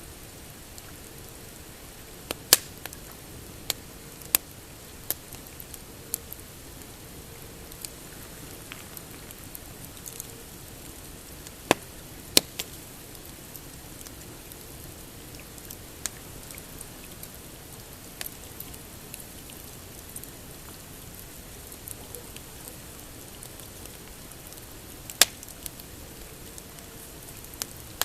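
Pine campfire crackling, with sharp, irregular snaps and pops over a steady hiss. The loudest pops come a couple of seconds in, around the middle and near the end.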